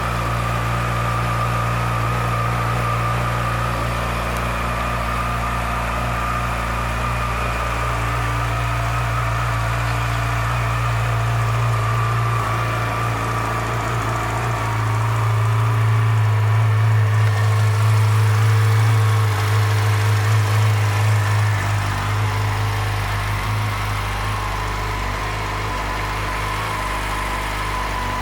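2010 Yamaha YZF-R6's inline-four engine idling steadily from a cold start, described as a little cold-blooded. The idle swells slightly louder for a few seconds about halfway through, then settles back.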